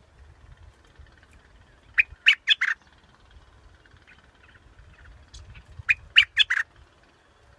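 Bulbul song: two short phrases of four quick, loud notes each, about two seconds in and again about six seconds in, with a few faint notes between them.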